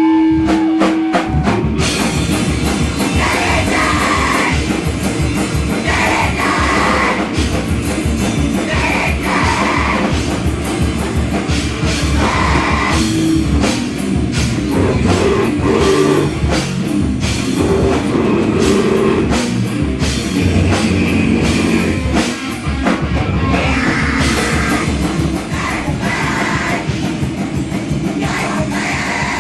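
A live heavy rock band playing loud, with a pounding drum kit; after a brief held note, the full band kicks in about two seconds in.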